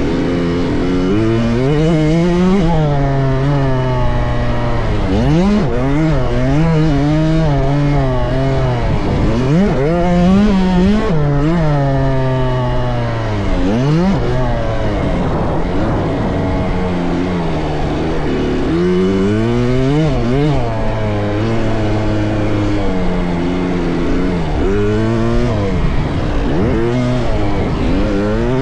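Dirt bike engines revving on a motocross track, the pitch climbing and dropping back again and again every few seconds as the riders open and close the throttle and shift.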